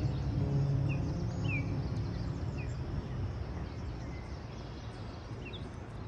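A few short, high bird calls scattered over a low, steady rumble that is loudest in the first two seconds and then eases off.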